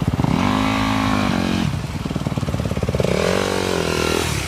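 Motorcycle engine idling with a quick, even pulse, revved twice. Each rev rises, holds for about a second and falls back to idle: the first comes just after the start, the second about three seconds in.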